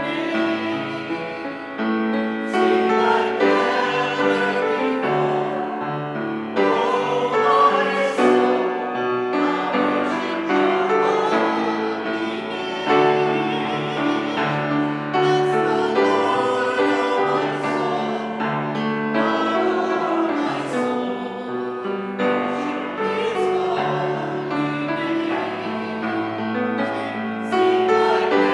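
Music: voices singing a hymn-like piece with keyboard accompaniment, in held chords that change every second or two.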